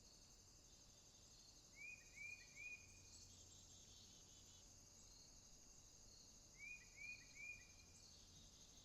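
Faint night-time rainforest ambience: a steady high, pulsing insect chorus. Twice, a quick series of three short chirping calls from an animal stands out, about two seconds in and again near seven seconds.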